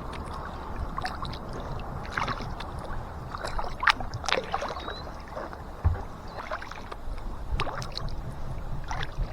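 Kayak paddle dipping and splashing in river water in irregular strokes, over a steady low rumble.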